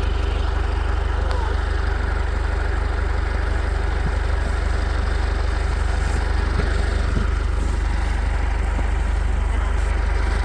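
80 hp International tractor's engine idling steadily, a constant low hum with an even, rapid pulse.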